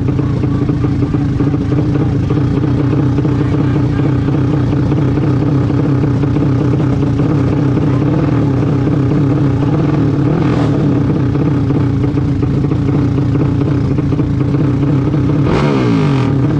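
Vehicle engine running loudly at steady revs. Near the end another engine note sweeps down in pitch, as when a vehicle passes or the engine drops its revs.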